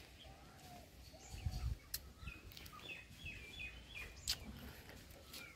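A small bird calling faintly, a quick run of about five short chirps, each falling in pitch, followed by a single sharp click.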